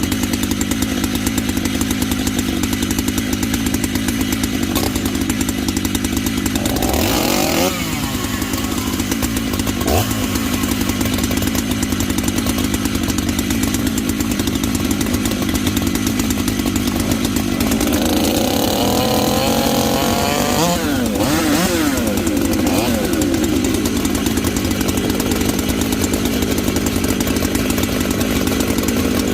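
Stihl two-stroke chainsaw running at idle just after a cold start, blipped up to speed and back down about seven seconds in and again several times between eighteen and twenty-two seconds.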